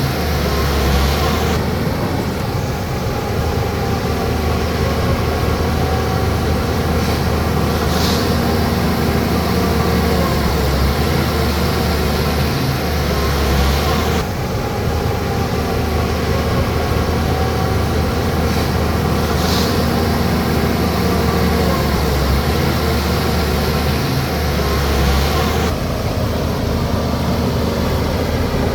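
A bulldozer's diesel engine runs steadily under load with a deep low hum. The sound shifts abruptly three times, and there are two brief hiss-like rises near the middle.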